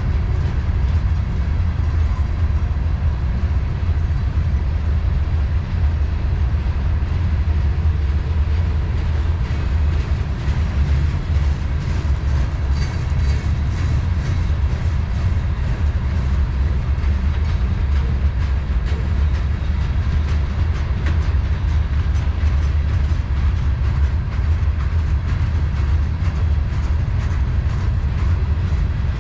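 Freight train cars rolling past close by: a steady low rumble of wheels on rail, with faint rhythmic clicking from the wheels.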